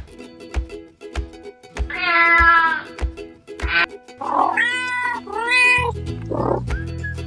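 Kittens meowing about four times, one long meow followed by three shorter ones, over background music with a steady beat.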